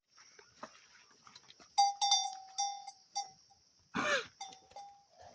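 A metal livestock bell clanking several times, each strike ringing briefly. About four seconds in, a goat bleats once.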